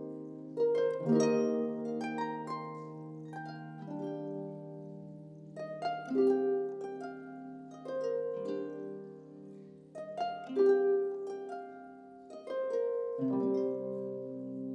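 Slow instrumental music on a plucked string instrument: ringing notes and chords struck every second or two, each left to die away.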